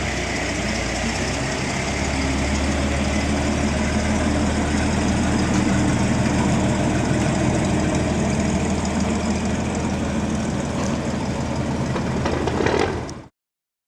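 Heavy truck engine idling with a steady low drone that gets a little louder about two seconds in, then cuts off suddenly near the end.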